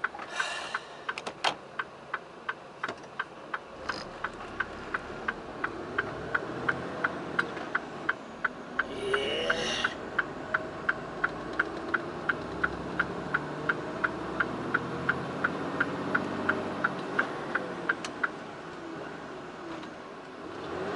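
Inside the cab of a Mitsubishi Fuso Super Great tractor unit, the turn-signal relay ticks steadily about two to three times a second while the diesel engine runs, its pitch rising and falling from about four seconds in as the truck gets moving. A short hiss comes about nine seconds in, and the ticking stops near the end.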